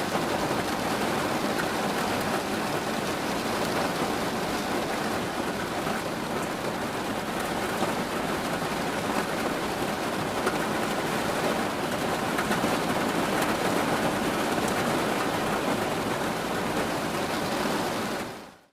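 Steady, heavy rain falling, an even rushing patter that fades out at the very end.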